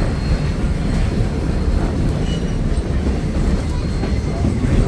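Mary Valley Rattler heritage steam train underway, heard from on board: a steady, loud low rumble of the carriage running along the track.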